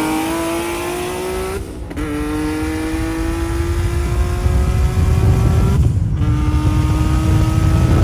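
Turbocharged Nissan 350Z V6 pulling hard at full throttle, its note climbing steadily through the gears, with two quick upshifts about two seconds and about six seconds in. A low road and wind rumble grows louder as the speed builds.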